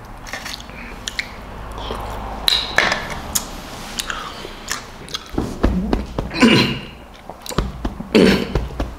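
A person chewing, with sharp clinks of a metal utensil against a small tray. In the second half come several short, louder mouth sounds.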